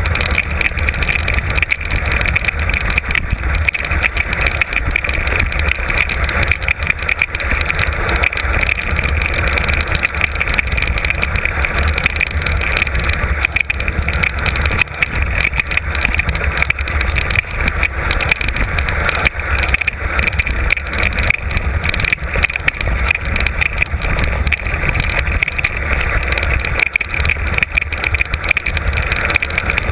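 Mountain bike on a fast downhill run heard from an onboard camera: steady wind rumble on the microphone under constant rattling and knocking of the bike over the trail.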